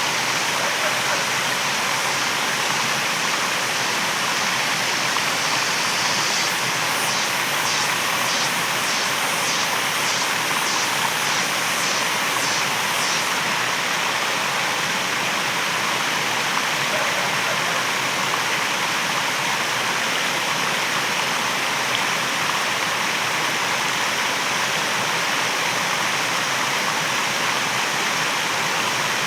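Waterfall: a steady, unbroken rush of falling water. About six seconds in, a high pulsing sound, roughly two pulses a second, joins faintly for about six seconds and then stops.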